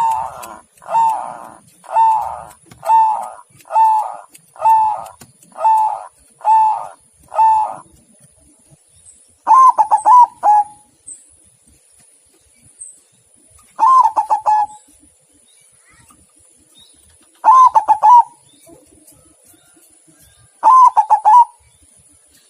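Zebra dove (perkutut) cooing: first a steady run of about nine short coos, roughly one a second, then four louder, quick trilled coo phrases a few seconds apart.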